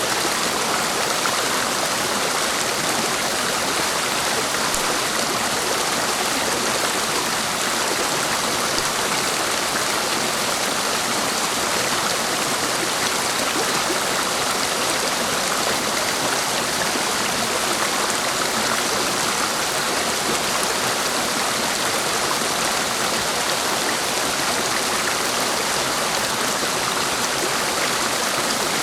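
Clear mountain stream rushing steadily, an even wash of flowing water.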